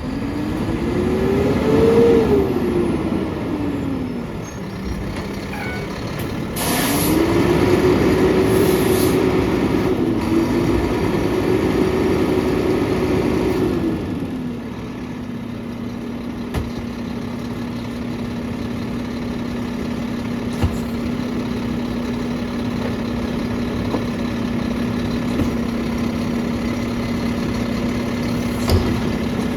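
Mack LR garbage truck engine revving to drive the McNeilus rear loader's hydraulic packer. It rises and falls once, then rises again and holds high for about seven seconds while the packer cycles, before dropping back to a steady idle. A short hiss of air comes about 7 seconds in.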